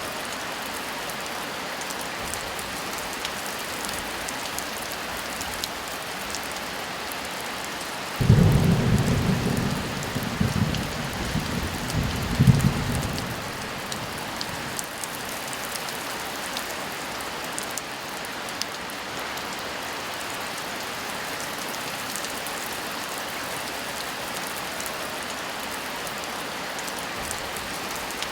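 Steady heavy rain hissing, with a clap of thunder about eight seconds in that rumbles for about five seconds, with a second loud peak near the end of the rumble.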